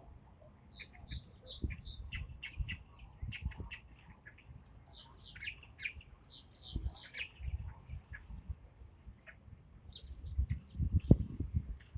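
A flock of birds chirping and calling in quick, short notes while being fed, with low thumps mixed in, loudest near the end.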